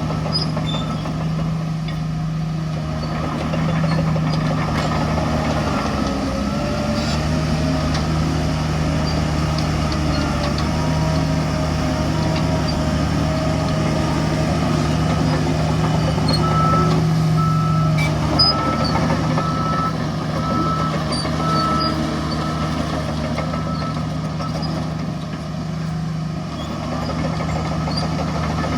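Heavy diesel engines of a bulldozer and dump trucks running steadily. A reversing alarm beeps at an even pace, a little under two beeps a second, for several seconds after the middle. There is one brief sharp knock during the beeping.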